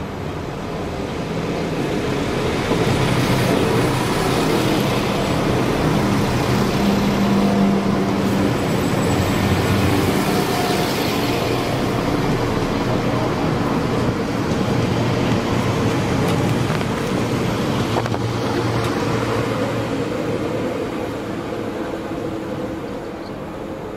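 A Class 172 Turbostar diesel multiple unit running past along the platform with a steady diesel engine drone. It builds as the unit draws level and fades as it pulls away.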